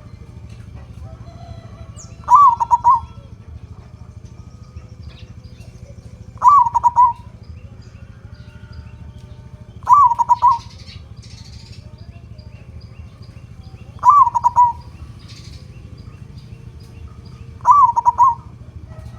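Local zebra dove (perkutut) cooing its 'kung' song five times, about once every four seconds. Each phrase is a quick run of short notes lasting under a second, over a steady low hum.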